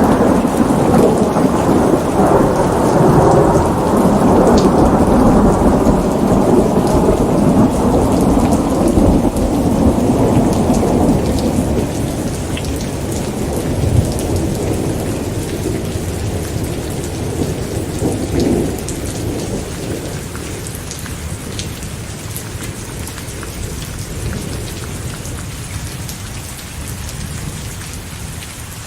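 Steady rain falling under a long, low roll of thunder. The thunder is loudest for the first ten seconds or so, then slowly dies away, leaving mostly the rain.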